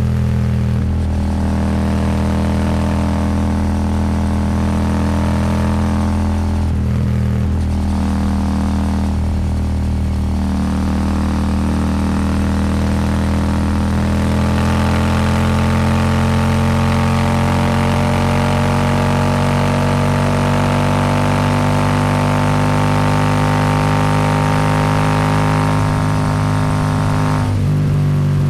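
Royal Enfield Super Meteor 650 parallel-twin engine running through a Rhino Racing slip-on exhaust, heard from the rider's seat under throttle. The engine note breaks off briefly a few times in the first ten seconds, then climbs slowly and steadily for about fifteen seconds before breaking again near the end, with wind rush rising as it speeds up.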